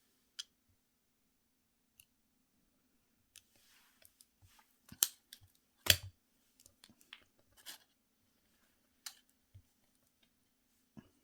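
Small objects handled at close range: scattered light clicks, taps and brief scratchy scrapes, with two sharp, louder clicks about five and six seconds in.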